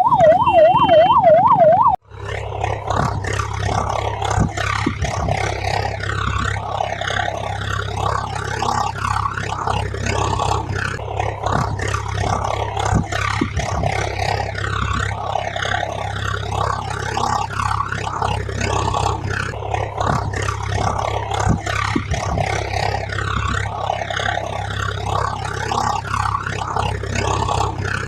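A loud, fast-warbling yelp siren for about two seconds that cuts off sharply. It is followed by a steady, dense rumbling noise with a constant low hum.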